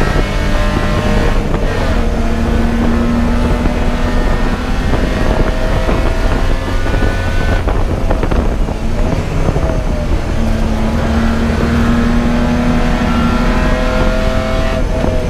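Race car engine running hard at speed, its pitch climbing slowly as it accelerates. The note breaks briefly three times (about a second and a half in, near the middle, and at the very end), as at a gear change or a lift off the throttle.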